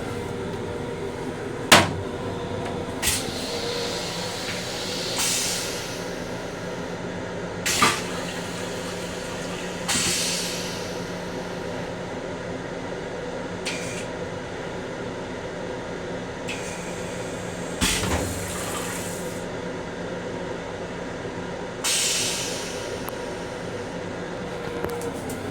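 Restroom of a Long Island Rail Road M7 railcar: the steady hum of the running car, with three sharp knocks and several short hissing bursts, each about a second long, of the restroom fixtures.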